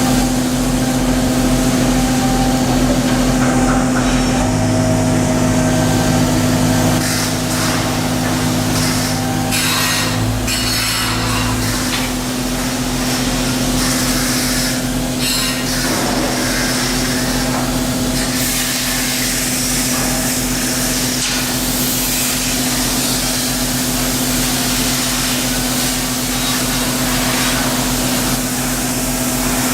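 Steady machine hum at one pitch, with scraping and knocking tool work over it; the low drone shifts between about four and twelve seconds in.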